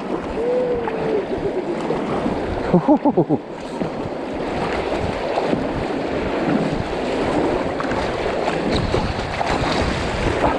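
Rushing water of a river in high flow running through rapids, a steady noise throughout. A person's voice calls out twice in the first few seconds: a drawn-out call, then a short, loud whooping shout.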